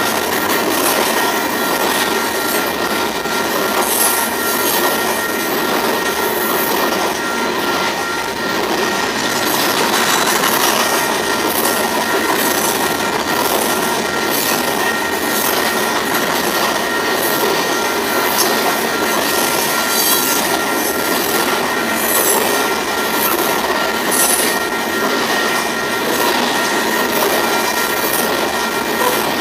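Freight train of open-top hopper cars rolling past at speed: a steady rumble and rush of steel wheels on rail, with a continuous high squeal and faint regular clicking from the wheels.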